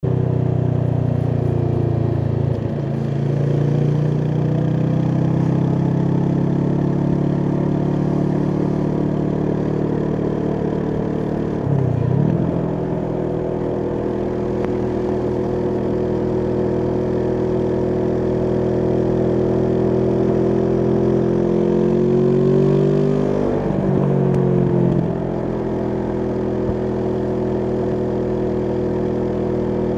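Kawasaki Vulcan S's parallel-twin engine running through an Arrow aftermarket exhaust under way, the engine note steady with a sharp dip about a third of the way through, then climbing gradually late on before falling back.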